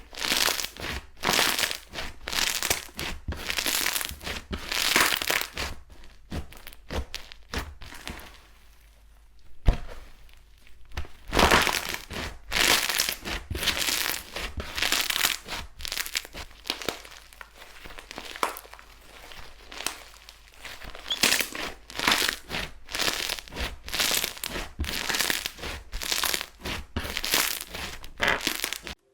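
Slime being worked by hand, giving a close run of noisy, crinkly bursts. There is a lull about eight seconds in, a sharp click near ten seconds, and the sound cuts off suddenly just before the end.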